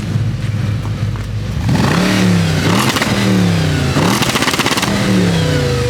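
Car engine on a stock exhaust idling, then revved hard about four times, each blip rising quickly and falling slowly back toward idle.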